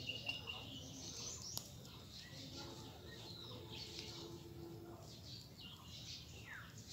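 Outdoor ambience with scattered high-pitched bird chirps and calls, including a falling call near the end, and a faint low steady hum for a couple of seconds midway.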